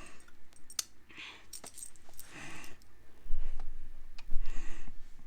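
Scattered light clicks and jingles with short bursts of rustling as the Easter basket's contents are handled, and a few heavier low bumps in the second half.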